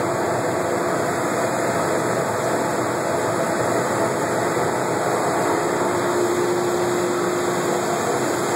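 A dryer's ventilation fan running steadily with the screw conveyor off: a constant rush of air with a faint steady hum.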